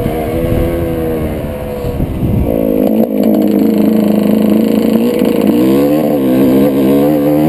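Two-stroke motocross bike engine revving with its pitch going up and down. About two and a half seconds in it gets louder and higher and holds there, then drops and climbs again near the end.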